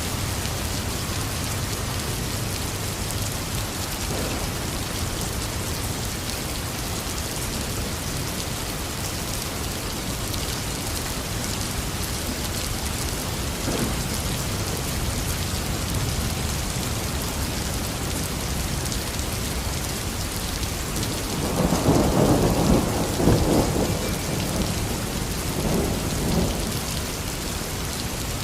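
Heavy steady rain falling, with a roll of thunder rumbling up about three quarters of the way through and fading in smaller rumbles near the end.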